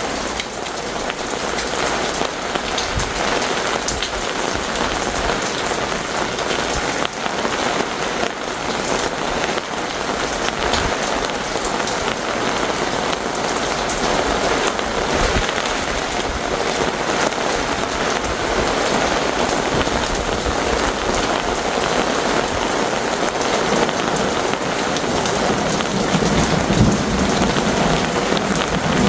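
Heavy rain pouring steadily during a thunderstorm, with a low rumble of thunder building near the end.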